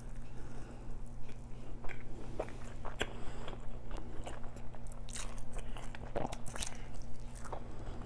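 Close-miked eating sounds: chewing and biting, a string of irregular wet clicks and mouth smacks, over a steady low electrical hum.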